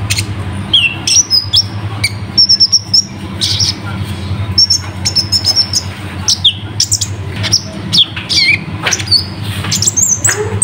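Kolibri ninja (konin) sunbird singing fast and without pause: a stream of sharp, high chirps, quick downslurred notes and short trills, over a steady low hum.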